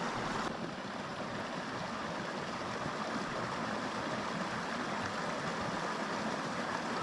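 Small mountain creek flowing: a steady rush of running water.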